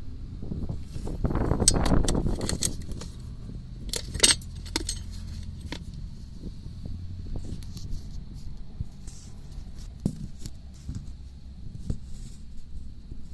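Knocking from a Volkswagen Passat B4's worn front suspension strut: scattered sharp knocks and metallic rattles over a low rumble of the car, with a louder rough stretch in the first three seconds and the sharpest knock about four seconds in.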